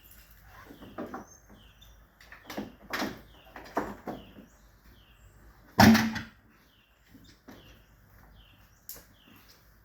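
A series of knocks and clunks from tools and parts being handled, the loudest a sharp clunk about six seconds in. Faint bird chirps repeat in the background.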